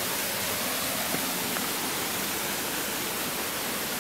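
Steady rushing of flowing water from a spring-fed stream, an even hiss with no break.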